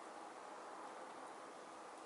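Wood fire burning in a Solo Stove Titan: a steady hiss of flames with a faint crackle or two.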